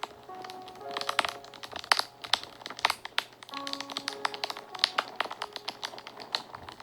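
Wood fire crackling and popping in irregular sharp snaps, over soft background music of slow, held notes.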